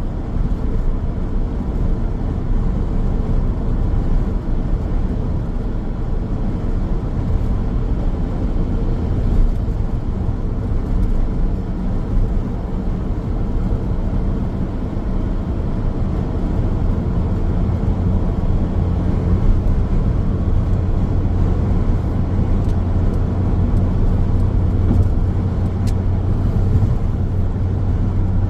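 Car driving on the road: steady low rumble of tyres and engine, with a low engine tone that grows stronger in the second half.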